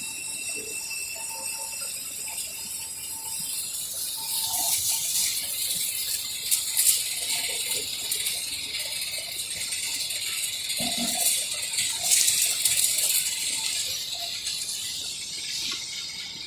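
Microwave drying and sterilizing machine running with a steady high whine, joined about four seconds in by a metallic rattling clatter, with sharper clinks twice before it eases off near the end.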